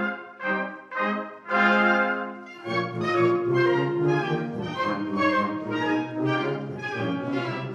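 Concert wind band playing a brass-led passage. It opens with short, separated chords and a held chord, then the full band enters with low brass about three seconds in and plays on continuously.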